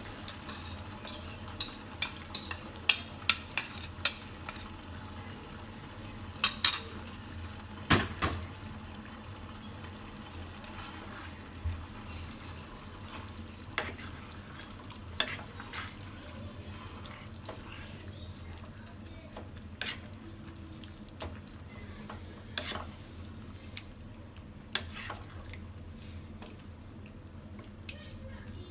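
A pan of chicken cooking over the stove, with the dissolved biryani masala water poured in and stirred, the utensil clinking and scraping against the pan. The clinks come thick and loud in the first eight seconds and then more sparsely, over a steady low hum and a faint sizzle.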